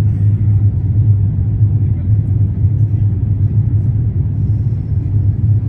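Steady low rumble of Airbus A350-900 cabin noise, even throughout with no distinct events.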